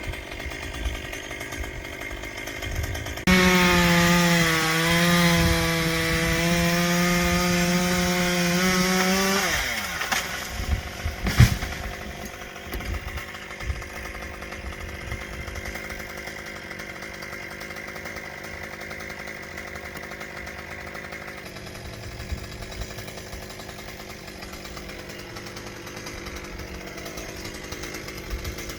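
Two-stroke chainsaw idling, then opened to full throttle about three seconds in and cutting for about six seconds, its pitch dipping as it loads in the wood, before dropping back to idle. A single sharp knock comes shortly after, then the saw idles on.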